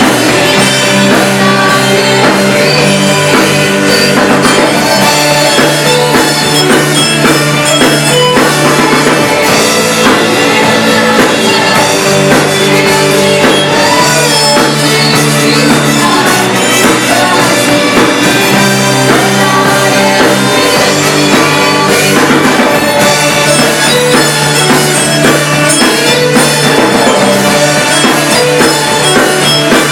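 Live church worship band playing a rock-style song, with drum kit and electric guitar, loud and continuous.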